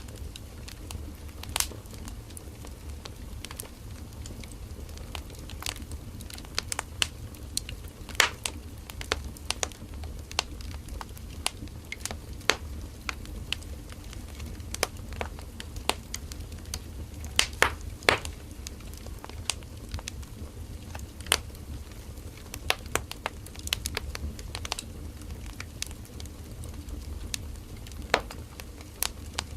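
Firewood burning in a campfire, crackling and popping in irregular sharp snaps over a steady low rumble of the flames.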